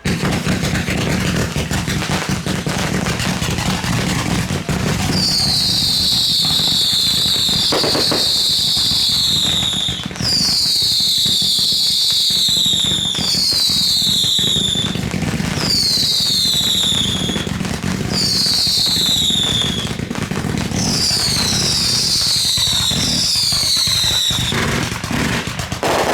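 Consumer fireworks going off in a continuous barrage of rapid crackling bangs. From about five seconds in, a run of about eight high whistles each fall in pitch over a second or two.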